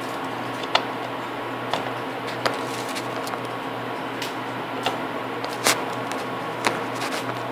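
Electric fan running steadily close by, with a handful of sharp clicks and taps from cutting small shapes out of clay with a plastic cutter on the work surface.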